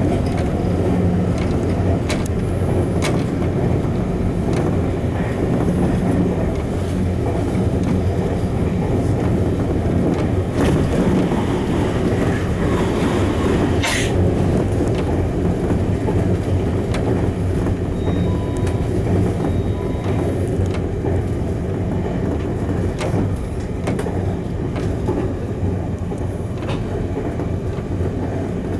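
Electric commuter train running at speed, heard from inside the car behind the cab: a steady low rumble and motor hum with scattered clicks of the wheels over rail joints. A brief hiss comes about halfway through.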